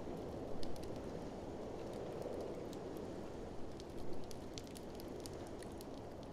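Wood fire crackling in a fireplace, with scattered sharp pops and a few louder ones, over a steady rushing blizzard wind that swells a little midway.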